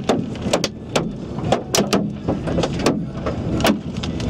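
Large hailstones, about 4 to 6 cm across, striking a car's roof and body in sharp, irregular knocks a few times each second, over the low rumble of the car.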